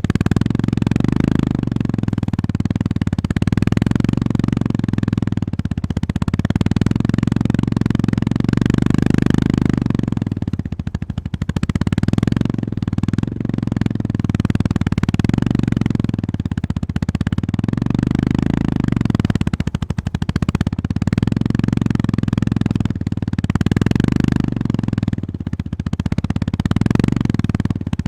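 Honda GB350S air-cooled single-cylinder engine running under load, its throttle opening and closing. The drone eases off briefly about eleven and twenty seconds in.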